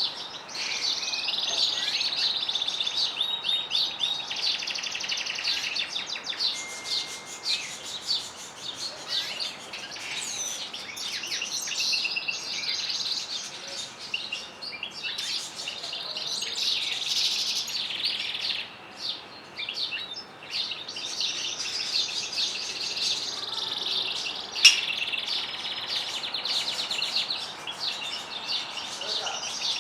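Domestic canaries and European goldfinches singing together: continuous fast trills and twittering with little pause. A single sharp click about 25 seconds in stands out above the song.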